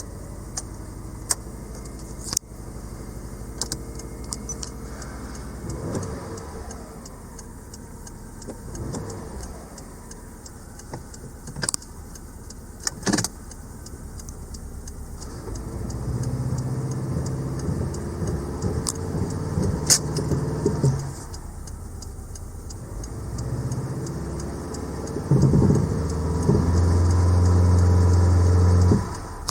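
Subaru Legacy's EJ20 flat-four engine idling, revved up several times; it is held at raised revs for a few seconds near the end, the loudest part. A few sharp clicks are heard over it.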